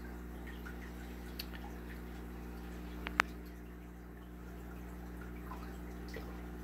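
Aquarium water dripping and trickling in small scattered drips over a steady low hum, with one sharp, loud snap about three seconds in.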